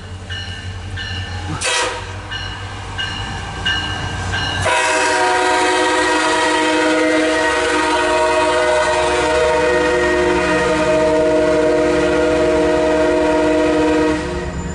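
MARC commuter train approaching with a low rumble, then its locomotive horn sounding one long, steady multi-note blast that starts a little under five seconds in and stops shortly before the end.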